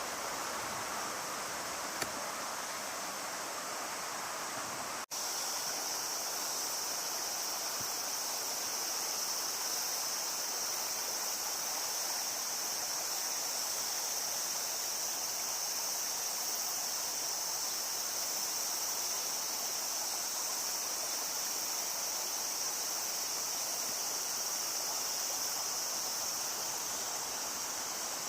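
Cicadas droning in a steady high-pitched band over the broad rush of a river's flowing water. About five seconds in, the sound breaks off for an instant and the cicada drone comes in stronger.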